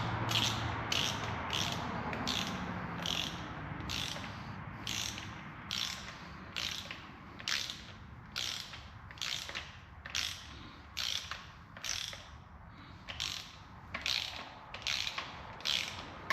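Ratchet wrench clicking in a steady run of short strokes, about one and a half a second, as an exhaust manifold bolt on a Ford 3.5 EcoBoost engine is run down in the tightening sequence.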